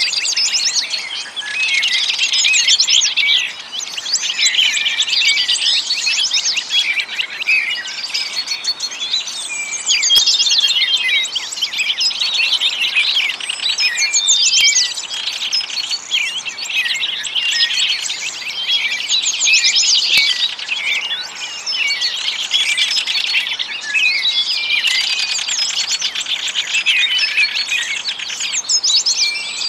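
A dense chorus of many small birds chirping and trilling at once, with overlapping high, quick calls and no pause.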